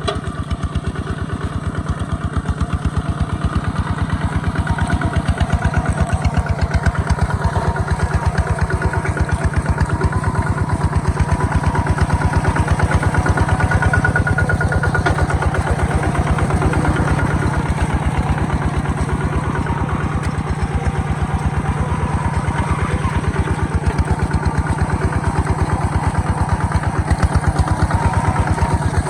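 Single-cylinder diesel engine of a Kubota ZT140 two-wheel walking tractor running steadily, with a rapid, even train of firing thumps.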